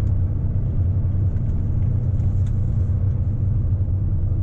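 Truck engine running steadily, a low rumble heard from inside the cab.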